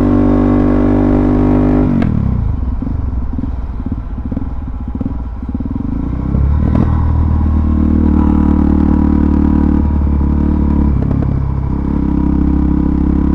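Suzuki DRZ400SM's single-cylinder four-stroke engine running at a steady throttle, then dropping sharply in pitch about two seconds in as the throttle closes. It runs rough and uneven for a few seconds, then settles into a steady lower note again from about six seconds in.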